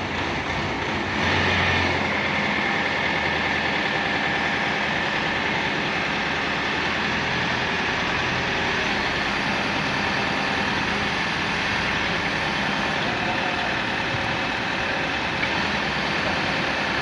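FYX 200 water-well drilling rig's engine running steadily, a little louder briefly about a second in.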